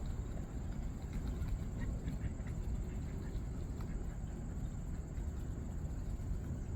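Outdoor ambience: a steady high-pitched insect drone over low wind rumble on the microphone, with a few faint short ticks in the middle.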